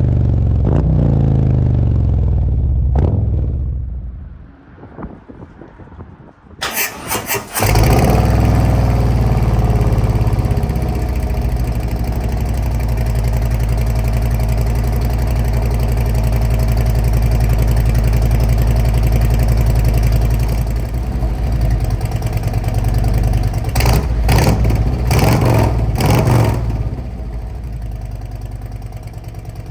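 Harley-Davidson Road Glide V-twin through a Khrome Werks full exhaust, revs falling away in the first few seconds. After a short lull the starter cranks and the engine fires, now with Ripper baffles fitted, and settles into a steady idle with a crisp, loud note. There are a few throttle blips near the end.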